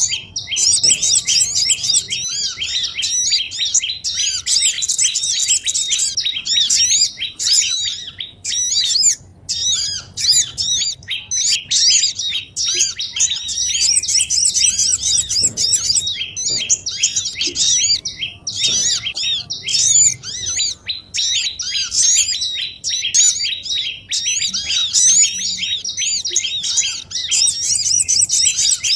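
Bird-lure recording of small songbirds: a dense, nonstop chorus of quick, high chirps and trills, many calls overlapping. It is a lure track played to draw wild small birds in for catching.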